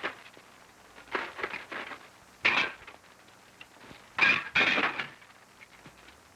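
Dishes and cutlery clattering in separate bursts as a table is set, the loudest about two and a half and four and a half seconds in.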